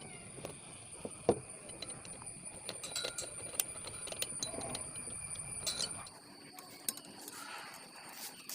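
Scattered light metallic clicks and clinks of hand tools and small engine parts being handled while a two-stroke chainsaw engine is dismantled.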